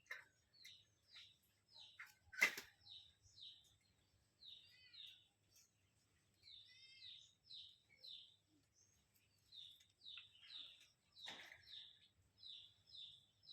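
A small bird chirping over and over, short high notes that each drop in pitch, about two a second, with a couple of quick rippling chirp runs in between. A sharp click about two and a half seconds in, and a softer one near the end.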